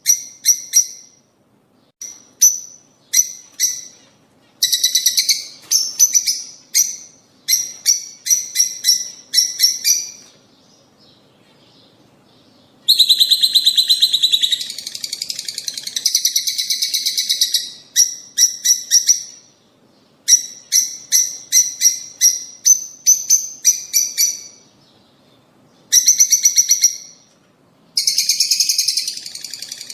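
Lovebirds (rosy-faced and Fischer's) calling: clusters of rapid, high-pitched chirps broken by short pauses, with a few seconds of unbroken chattering about halfway through.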